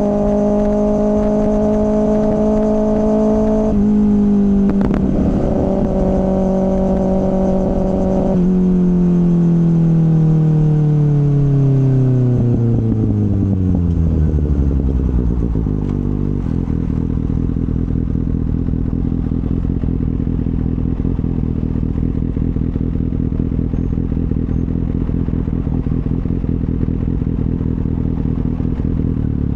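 2024 Kawasaki ZX-6R inline-four with an M4 slip-on exhaust, running steadily under way. About eight seconds in it rolls off the throttle and the engine note falls steadily as the bike slows. It settles into a steady low idle about halfway through.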